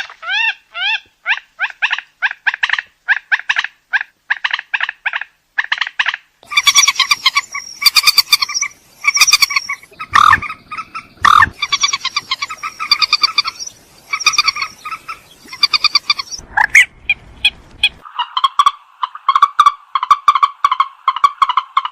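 Recorded calls of a rail (burung mandar), used as a lure call: quick runs of short repeated notes. A louder, harsher stretch with background hiss runs through the middle, and a fast chattering run of notes follows near the end.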